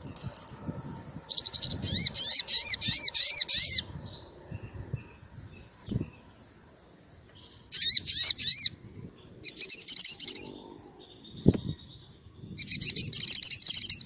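A sogon sunbird singing loud bursts of fast, high, arching notes repeated in quick succession: four bursts, the first about two and a half seconds long, the others shorter. A short knock comes between them about eleven and a half seconds in.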